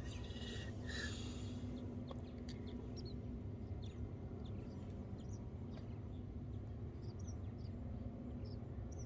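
Small birds chirping: short, high, falling chirps in quick irregular succession over a steady low rumble. There is a brief rustle about a second in.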